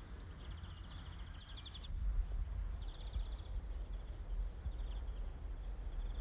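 Outdoor ambience of small birds calling in several short, rapid trills, over a steady low rumble.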